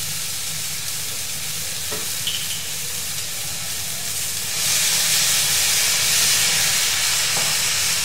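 Vegetables sizzling in a hot metal pan. A little past halfway the sizzle turns louder and hissier as soy sauce is poured onto them.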